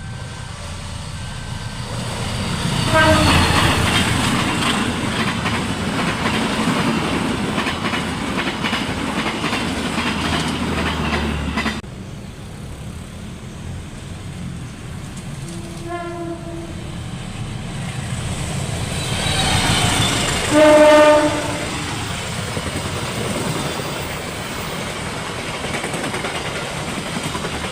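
A passenger train hauled by a diesel locomotive passing, with a loud rumble and wheel clatter that cuts off suddenly about twelve seconds in. The locomotive's horn sounds several times: once as the train arrives, briefly later, and loudest in a blast of about a second near the end.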